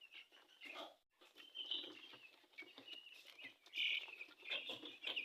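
Broiler chicks about a week old peeping, many short high-pitched cheeps overlapping.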